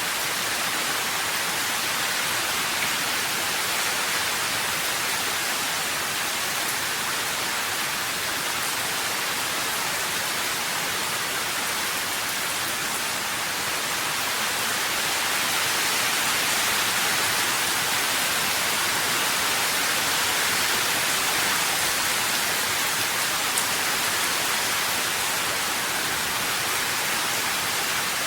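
Steady rain falling: an even, unbroken hiss of many drops with no distinct individual splashes.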